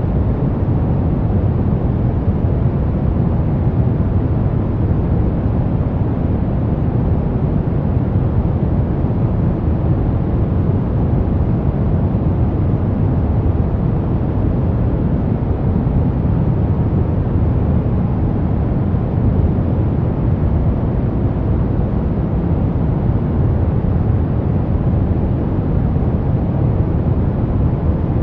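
Steady brown noise: a deep, even rumbling hiss with most of its weight in the low end, unchanging throughout.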